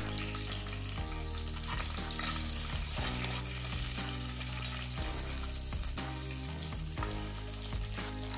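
Green chillies, pandan leaves and curry leaves sizzling in hot coconut oil in a clay pot, stirred with a steel spoon that clicks and scrapes against the pot every second or so. Soft background music with sustained low notes runs underneath.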